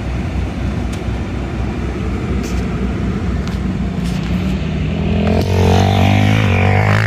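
Engine running steadily, then a dirt bike engine revs up and grows louder from about five seconds in, its pitch rising.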